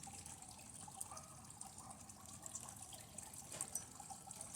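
Faint crackling and fizzing with scattered light ticks: circuit-board parts heating and burning under high current from a lead-acid battery.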